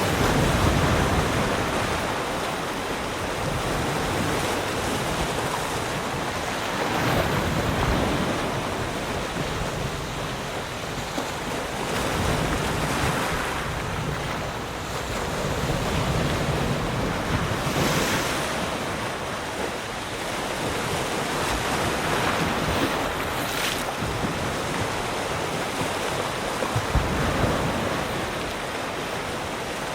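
Sea waves breaking and washing on the shore, the surf swelling and easing every few seconds, with some wind noise.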